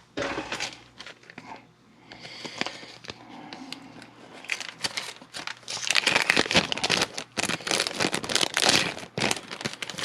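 Plastic packaging crinkling and crackling as it is handled and opened by hand, in irregular bursts, busiest in the second half.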